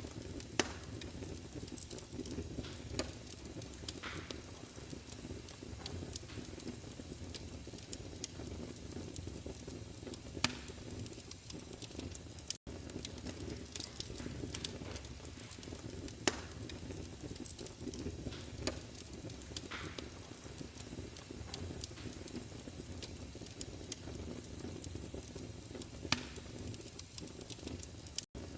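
Wood fire in a fireplace crackling: a steady low rumble of flames with irregular sharp pops and snaps every second or two. The sound cuts out for an instant twice.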